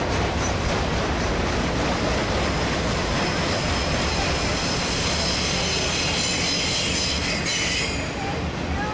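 Freight train of truck trailers on flatcars rolling past with a steady low rumble. From about a third of the way in, the steel wheels squeal in high, thin tones that cut off suddenly near the end.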